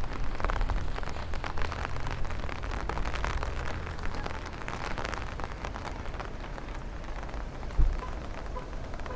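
Rain falling steadily, with many close drop hits over a low rumble. There is a single sharp thump near the end.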